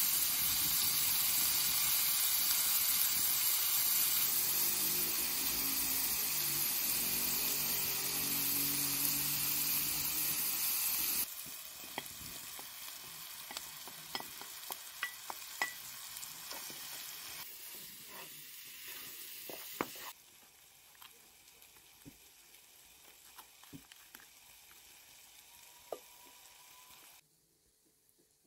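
Food frying in a pan: a loud, steady sizzle that drops abruptly about eleven seconds in to quieter sizzling with scattered clicks of a utensil on the pan. The sizzle steps down twice more and is very faint near the end.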